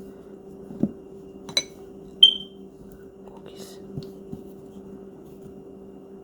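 A few light knocks and clicks of hard objects being handled, with one short, bright ringing clink about two seconds in, over a steady low hum.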